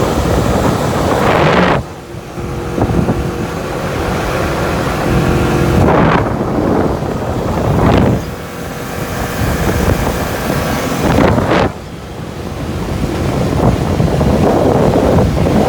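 Speedboat running at speed over the water: engine hum under heavy wind buffeting on the microphone and rushing water, swelling and dropping off sharply a few times.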